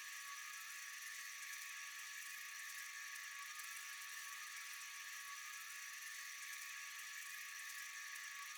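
Steady high-pitched drone of a night insect chorus, unchanging, with a fine rapid pulsing in its highest notes.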